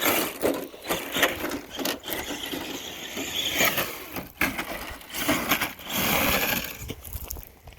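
Traxxas TRX-4 Sport RC truck with a Castle 3800 kV brushless motor driving over loose dirt and rubble, tyres crunching and scraping in uneven spurts, with a brief rising and falling motor whine partway through.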